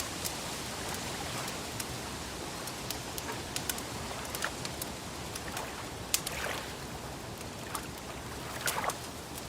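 A wood fire crackling, with scattered sharp pops and snaps over a steady hiss. Soft swells of lake water lapping come and go, a couple of them in the second half.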